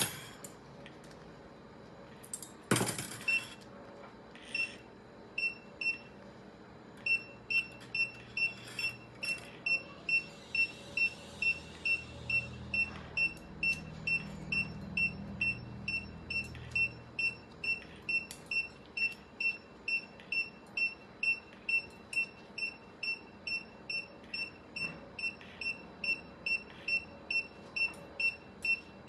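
Steady electronic pulse beeps from a surgical patient monitor, short high tones at one pitch about one and a half times a second, each beep marking a heartbeat. A short sharp clatter comes about three seconds in.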